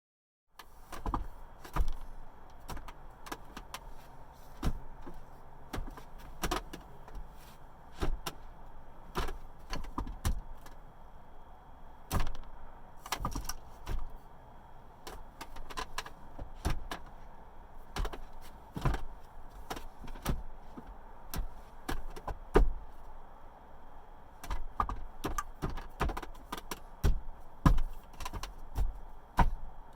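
Hands and forearms knocking against a flat wooden dummy made from a 2x10 board, an irregular run of sharp wooden knocks and slaps about one or two a second, over a faint steady hum.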